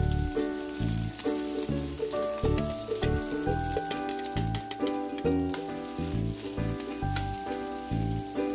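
Fried rice sizzling in a hot pan as it is stirred, with scattered sharp clicks. Background music with a stepping bass line plays over it throughout.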